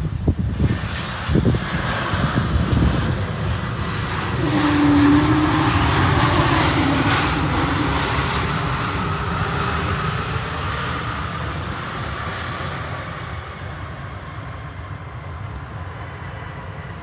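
Jet airliner flying low overhead near the runway. Its engine roar swells to a peak about five seconds in, then slowly fades away.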